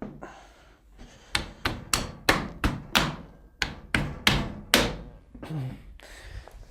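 Washing machine's top lid being knocked down into its front slots by hand: a quick run of about a dozen sharp knocks, with handling noise around them.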